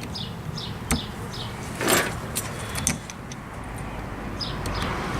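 A few sharp clicks and a brief scrape, loudest about two seconds in, from small carburetor parts and tools being handled, while a bird chirps in short falling notes at the start and near the end.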